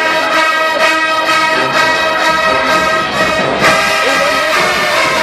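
HBCU marching band's brass section playing loud, held chords, with trombones and trumpets; the band comes in abruptly at the start and hits a new chord about three and a half seconds in.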